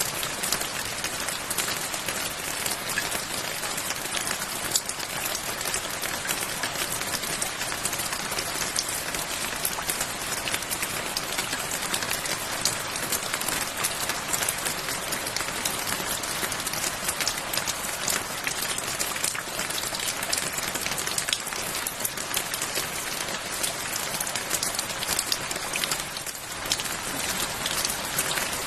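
Steady rain falling: an even hiss dotted with many distinct, sharp drop hits.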